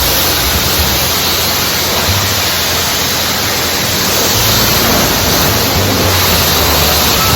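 High-pressure water spraying from a self-serve car wash wand during the rinse stage: a loud, steady hiss of spray.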